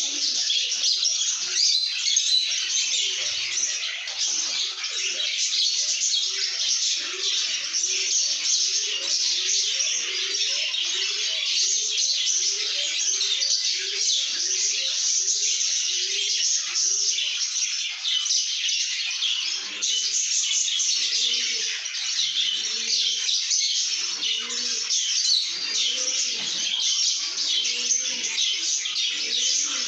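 Many lovebirds chattering and chirping at once, a dense high-pitched twittering that never stops. Under it, a lower call repeats about twice a second through the first half, and irregular lower calls follow in the second half.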